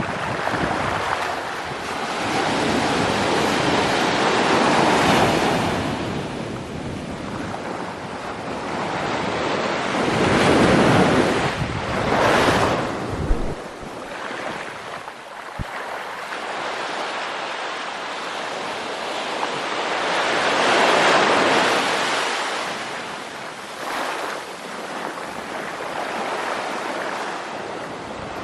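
Sea waves breaking on the shore: surf that swells and fades every few seconds, with several louder breakers.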